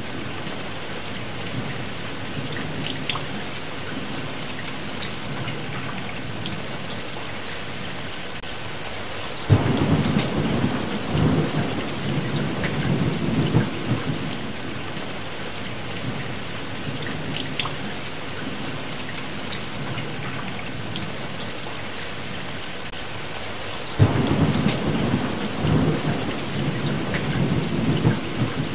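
Steady heavy rain with thunder: two rolls of thunder, each starting with a sudden sharp crack, about a third of the way in and again near the end, rumbling on for a few seconds before dying back under the rain.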